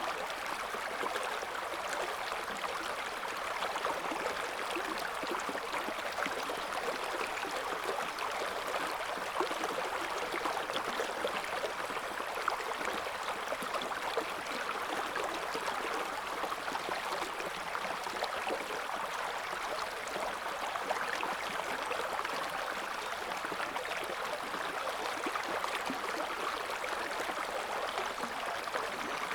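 River water flowing over stones, a steady rushing and burbling current.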